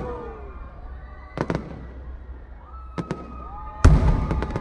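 Aerial fireworks bursting: a booming bang about a second and a half in, a sharper crack at three seconds, and the loudest, deepest boom near four seconds in, each with a rumbling tail.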